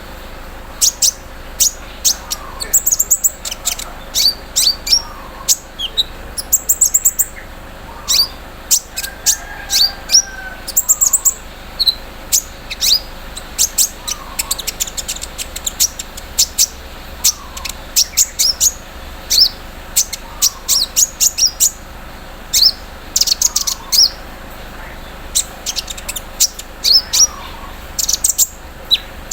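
Kolibri ninja sunbird singing: quick bursts of very high, thin chirps and rapid stuttering trills, coming in short phrases about once a second.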